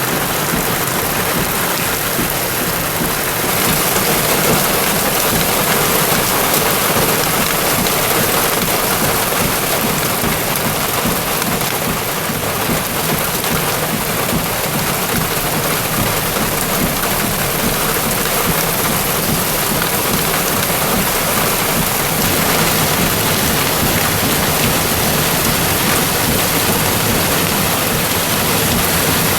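Heavy rain falling, a dense steady hiss that grows a little brighter about three and a half seconds in.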